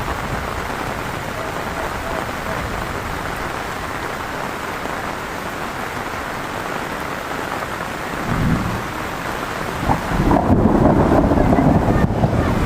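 Heavy rain falling steadily, with a low rumble of thunder swelling about eight seconds in and growing louder over the last few seconds.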